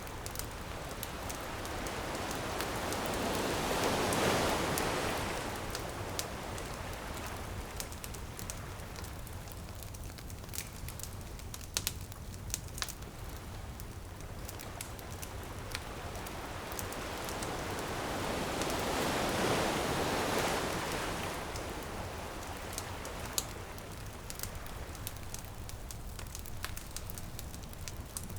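Ocean waves washing onto a beach, two slow swells rising and falling about fifteen seconds apart, with a wood bonfire crackling and popping throughout.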